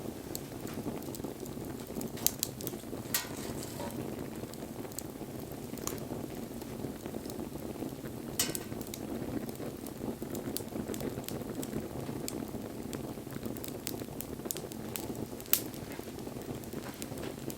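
Wood fire burning: a steady low rush of flames with scattered crackles and a few sharp pops from the burning wood.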